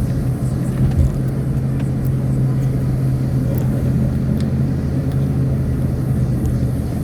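Car engine and road noise heard from inside the moving car's cabin, a steady low drone, with a short thump about a second in.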